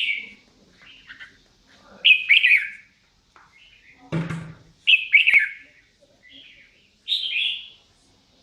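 A songbird singing short, bright chirping phrases, one about every two seconds, with softer chirps between them. A single knock comes about halfway through.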